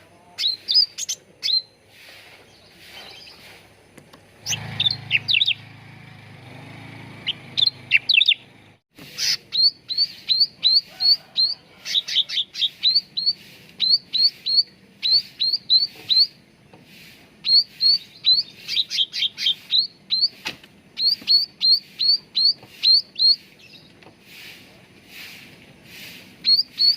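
Cucak ranting calling: quick runs of short, sharp high chirps, several a second, repeated in bursts. A low rumble sits under the calls for a few seconds near the start.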